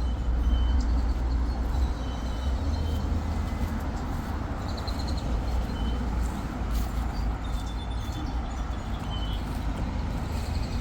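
Steady low rumble and hiss of an outdoor scene, with faint short bird chirps now and then.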